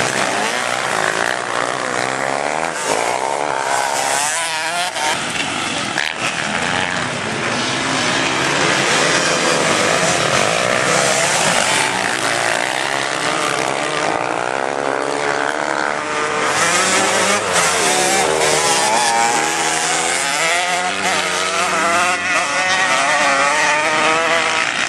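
Several formula racing motorcycles running hard at once, their engine pitches rising and falling as the riders rev, shift and go past.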